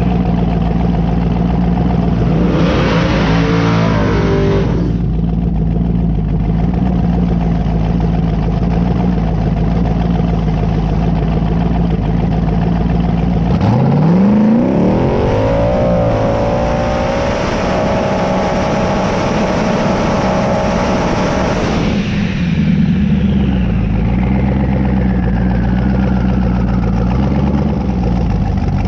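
Twin-turbo 5.3 LS V8 in a 1992 Camaro drag car idling, with a brief rev a few seconds in. About 13 seconds in it launches at full throttle, revs climbing steeply and then holding high for several seconds. The throttle closes suddenly near the end, leaving the engine at idle while a whine falls slowly in pitch.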